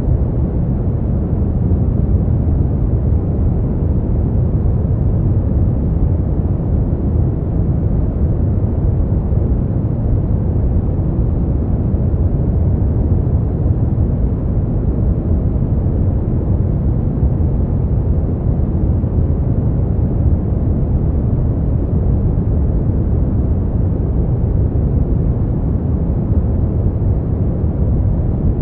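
Brown noise: a steady, deep rushing hiss weighted toward the bass, with no change or events.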